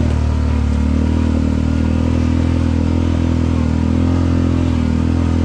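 Quad bike (ATV) engine running steadily under way, its pitch shifting only slightly, with rain falling over it.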